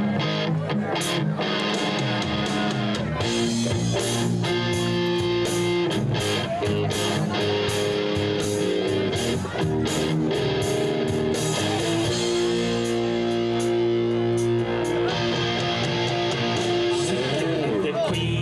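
Live band playing, an electric guitar to the fore over a steady run of sharp, rhythmic strokes.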